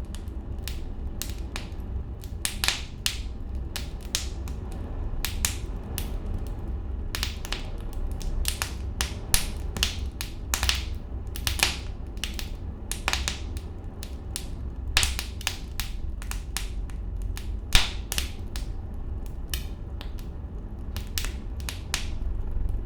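Wood fire crackling: irregular sharp pops and snaps, several a second, over a steady low rumble of the burning.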